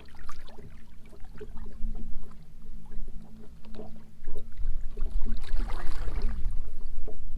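Boat on the water: a steady low hum with scattered light knocks and clicks, rising to a louder low rumble about two-thirds of the way through.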